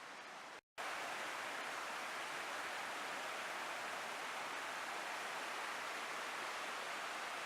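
Waterfall rushing: a steady, even noise of falling water. It cuts out to silence for a moment under a second in and comes back a little louder.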